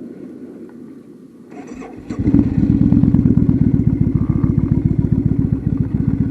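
Kawasaki Vulcan motorcycle engine cranking briefly and catching about two seconds in, then idling with a fast, even beat.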